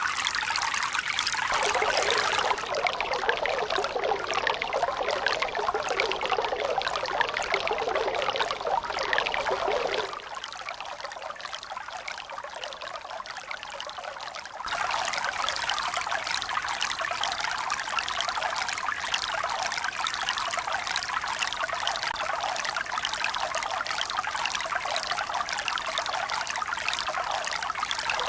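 Running water trickling and pouring steadily, with no rise and fall of waves. The sound changes abruptly about 2 s in, drops to a quieter, thinner stretch about 10 s in, and comes back fuller about 15 s in, like separate water recordings cut together.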